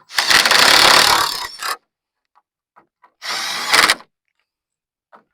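Impact tool driving the hood bolts in two short bursts, the first about a second and a half long, the second under a second, run slowly so as not to crack the fastening nut in the fiberglass hood.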